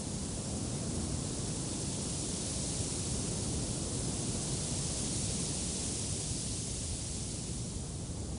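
Wind blowing, a steady rush of noise with a low rumble and a bright hiss that swells a little midway.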